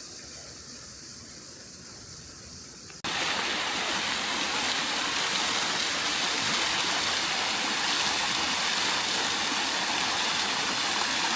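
Faint hiss, then about three seconds in an abrupt cut to loud, steady rushing water, like a river or waterfall in full flow.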